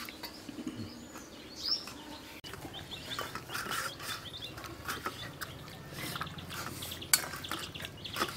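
Small birds chirping, with light clinks and taps of fingers on steel plates and bowls, and one sharp click about seven seconds in.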